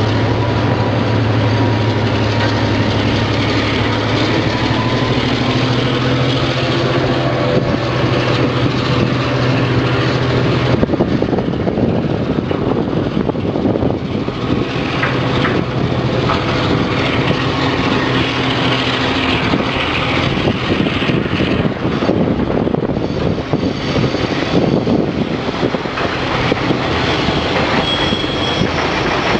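Freight train of container wagons rolling past at close range: the rumble and clatter of the wagons' wheels on the rails. A low steady locomotive engine hum underneath stops about eleven seconds in, and a faint high wheel squeal shows near the end.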